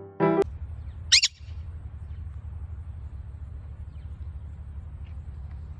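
Dusky-headed conure giving one short, shrill screech about a second in, over a steady low hum.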